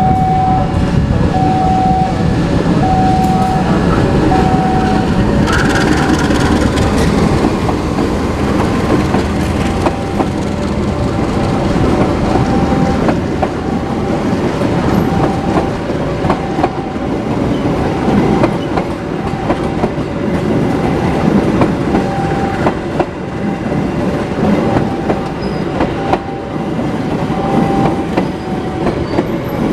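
Diesel-hauled passenger train moving through the station close by, wheels clattering over the rail joints. A short high tone repeats about once a second, most clearly in the first few seconds.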